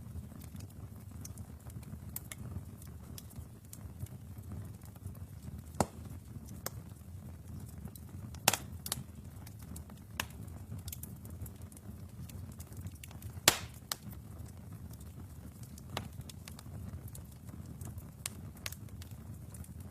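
Wood fire burning in a fireplace: a steady low rumble of flames with sharp crackles and pops at irregular intervals. The loudest pops come about a third of the way in and again about two-thirds of the way in.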